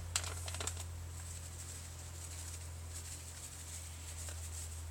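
Dried herbs being sprinkled over a dish: a few faint, scattered ticks of patter, mostly in the first second, over a steady low hum.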